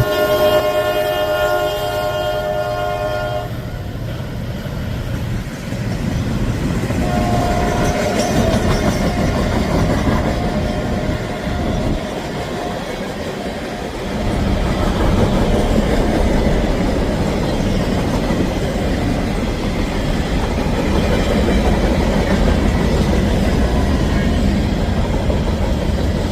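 Diesel freight locomotive's air horn sounding a chord, cutting off about three and a half seconds in, then the locomotives and freight cars rolling past with a steady, loud rumble that swells about halfway through.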